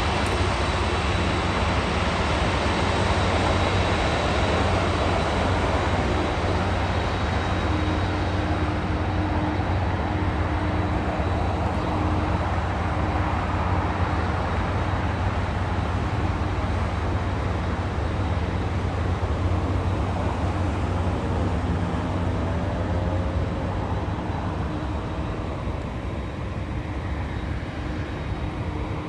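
Jet engines of an Atlas Air cargo airliner on its arrival at the airport, a loud steady sound that slowly fades over the last several seconds.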